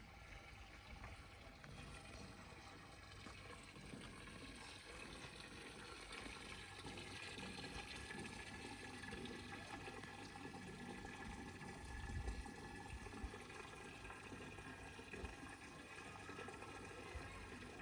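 Faint running water, steady throughout, with a brief low thump about twelve seconds in.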